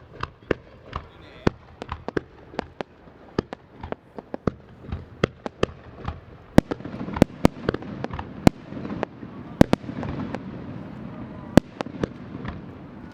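Fireworks display: a rapid string of sharp shell bursts, often several a second. From about halfway the bangs come thicker over a rumbling haze.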